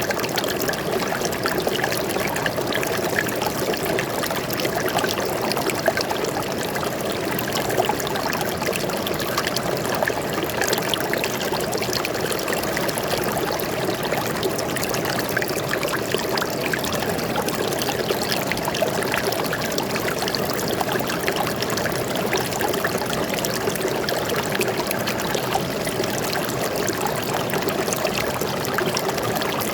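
Forest stream flowing steadily, a constant babbling and trickling of water.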